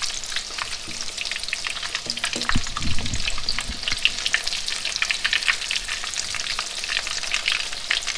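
Breaded catfish fillets shallow-frying in hot oil in a skillet: a steady crackling sizzle with dense small pops. A brief low thump comes about two and a half seconds in.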